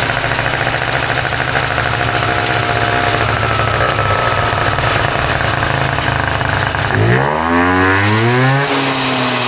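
Renovated 50cc short Minarelli-type two-stroke scooter engine running on a test bed, idling steadily, then revved up about seven seconds in, its pitch rising sharply and holding high.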